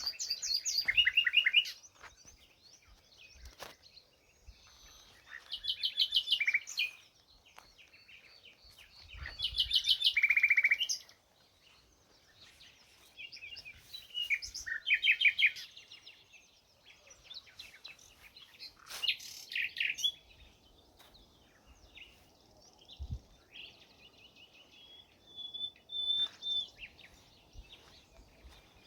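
A songbird singing: short, rapid trilled phrases of one to two seconds, repeated every few seconds with quiet gaps between.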